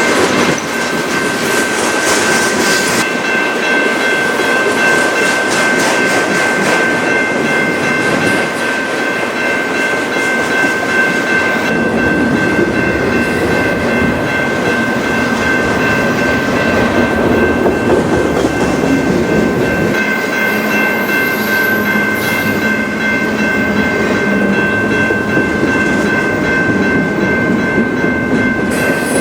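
A train rolling past on the track: a steady rumble and clatter of railcar wheels on the rails, with a high ringing tone held over it.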